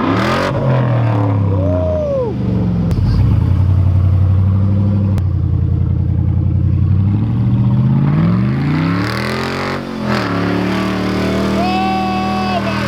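Vehicle engine revving hard while drifting on snow, its pitch climbing and falling again and again. A short, steady higher tone comes in near the end.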